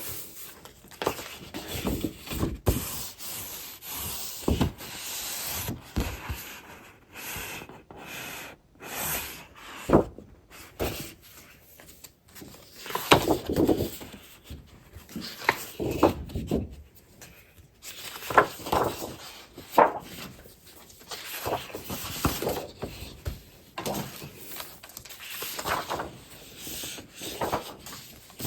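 Scrapbooking paper and packaging handled by hand: irregular rustling, sliding and crinkling as sheets and items are shuffled, with a few sharper taps.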